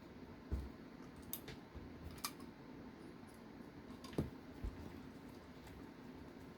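A handful of light, irregular clicks and taps of small RC car hardware (screws, shims, nuts and chassis parts) being picked up and handled, over faint room tone.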